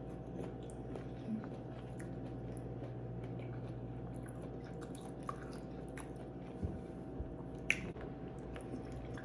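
Close-miked chewing and wet mouth sounds of someone eating seafood boil, with a few short clicks and smacks, the sharpest near the end. A steady low hum runs underneath.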